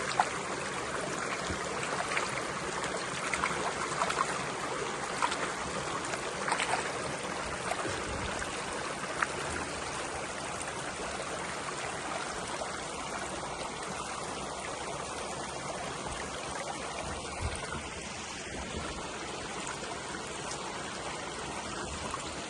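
Water running steadily, as of a small stream, with a few faint ticks in the first half.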